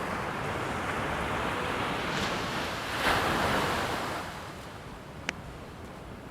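Steady rushing wind-like noise that swells loudest about three seconds in and then eases off, with a single sharp click a little after five seconds.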